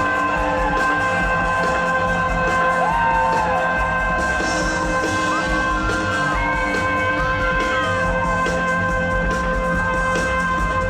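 Live highlife-style band music with a steady beat, guitar and held keyboard tones, with melodic lines weaving over it.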